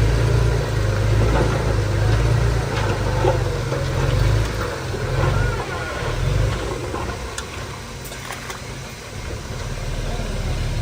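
Heavy construction machine's diesel engine running with a deep steady hum, easing off a little past halfway and picking up again near the end, with a few light knocks.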